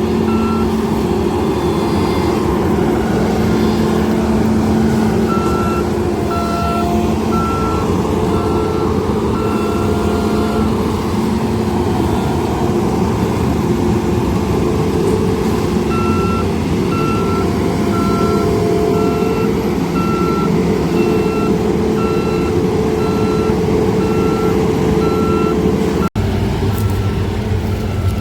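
Sugarcane harvester engine running steadily with a reversing alarm beeping in runs of short high beeps, about three every two seconds. A longer, lower tone sounds now and then. The sound drops out abruptly for an instant near the end.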